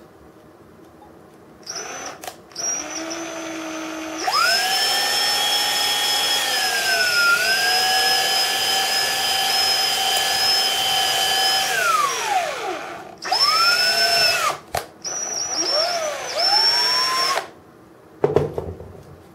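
Small power drill with a 3/32-inch bit drilling out the rivets of a diecast model crane. Its motor whine runs steady for several seconds with a brief dip in pitch, as if under load, then winds down. A few shorter bursts of drilling follow, and a brief knock comes near the end.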